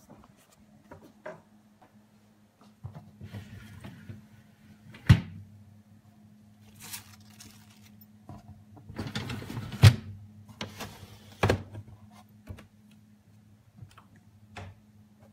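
Knocks and clatter of a refrigerator's shelves, drawers and containers being handled, with sharp knocks about five, ten and eleven and a half seconds in and rustling around ten seconds in, over a steady low hum.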